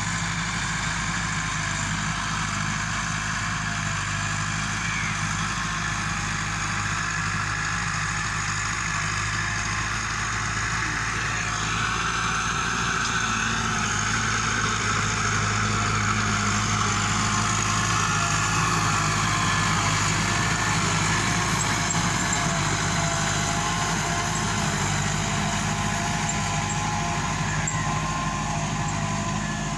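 Massey Ferguson 385 tractor's Perkins four-cylinder diesel engine running steadily, growing a little louder through the middle.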